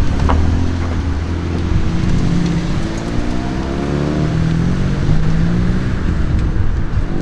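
Modified car engine accelerating away under load. The revs climb, drop back at a gear change, then climb again. A sharp crack sounds just after the start.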